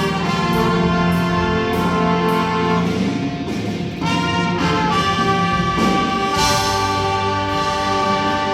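Indoor winds ensemble of brass and woodwinds playing held chords, moving to a new chord about four seconds in.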